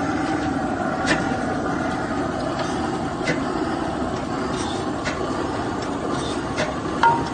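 A steady engine running, with a few sharp clicks and a short high tone near the end.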